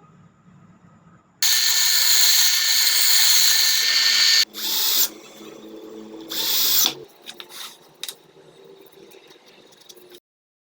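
Handheld power tool running in bursts: one loud run of about three seconds, then two shorter bursts, followed by a few faint clicks and knocks.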